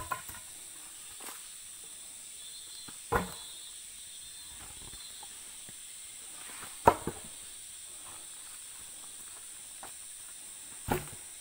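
Three separate sharp knocks, about four seconds apart, over a steady hiss: hard objects struck or dropped while logs and stones are being worked free.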